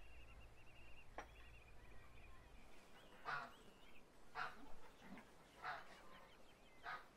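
A bird gives four short, harsh calls, about a second apart, starting about three seconds in. A faint warbling and a single click come before them.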